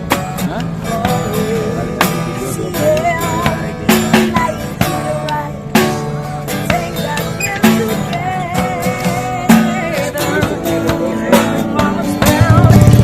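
Street busker performing live: a wavering melody line over plucked guitar accompaniment. About 12 s in, a loud, steady low drone sets in under the music.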